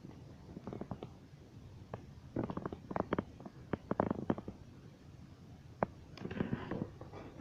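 A scattered series of light clicks and knocks, thickest in the middle, with a brief rustle near the end.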